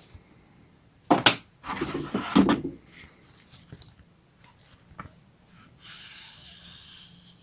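Handling of a cardboard box and its packed parts during an unboxing. There are two sharp knocks a little over a second in, then a second or so of bumping and scraping, a single click at about five seconds, and a soft rustle near the end.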